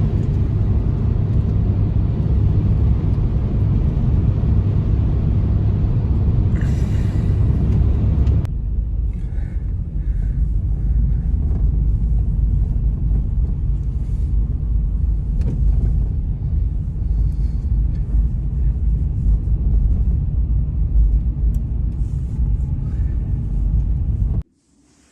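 Blizzard wind blowing on the microphone, a loud low noise without a clear pitch. Its character changes abruptly about eight seconds in, and it cuts off suddenly just before the end.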